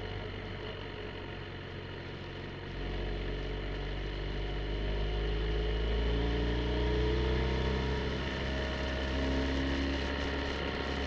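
BMW R 1250 GSA's boxer-twin engine running under way, easing off at first and then pulling harder from about three seconds in, its pitch rising and falling with the throttle through the bends.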